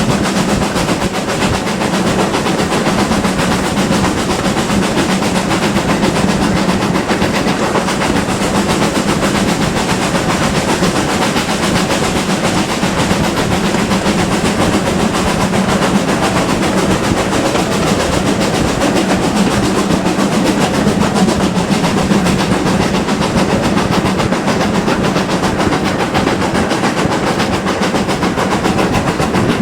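Steam-hauled train running steadily, a continuous rumble with wheel noise on the rails and a steady low drone.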